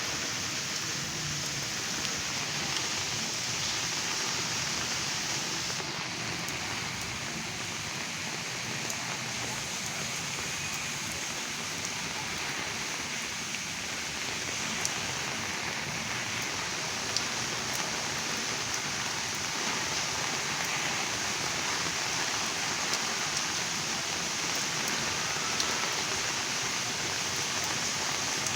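Heavy rain falling steadily, with a few sharp drops standing out as small ticks.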